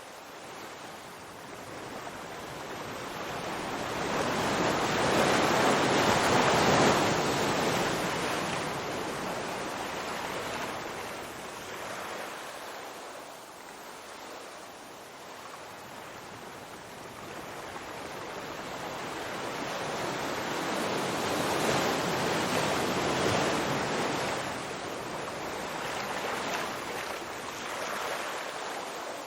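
Ocean waves breaking and washing on a shore: two big swells, the first about five seconds in and the second past the middle, each building and fading over several seconds.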